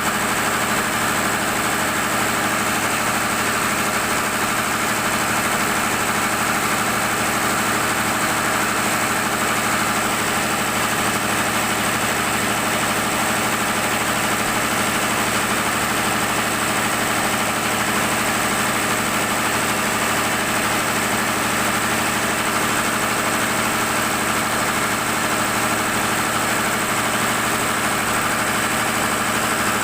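Cummins generator-set engine running steadily at a constant speed.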